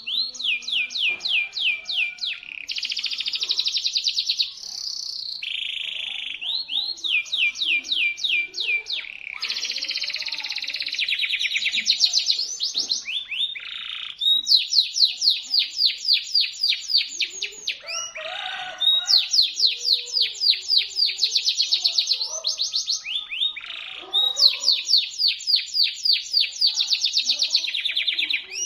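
Canary singing: shrill, fast trills and rolls of rapidly repeated notes, in phrases of one to three seconds separated by short breaks.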